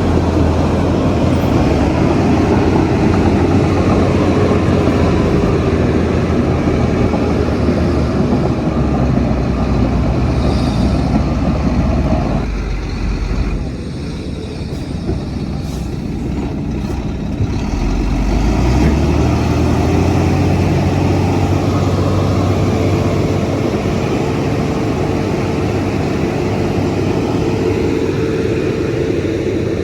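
Bulldozer's heavy diesel engine running under load. Roughly halfway through it eases off for about five seconds, then picks up again with a rising pitch.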